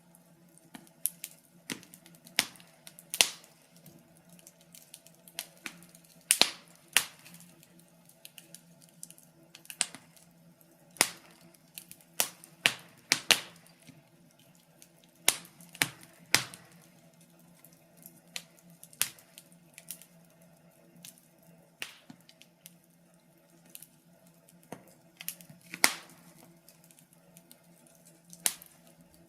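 Wood fire crackling in a fireplace: irregular snaps and pops, a few louder ones standing out, over a faint steady low hum.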